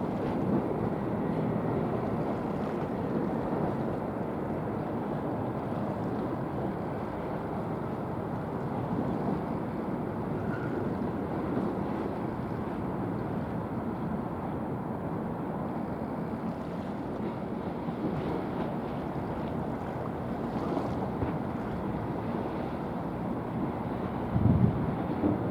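Steady low rush of a passing patrol ship and its wake on the water, with wind on the microphone. A brief louder gust buffets the microphone near the end.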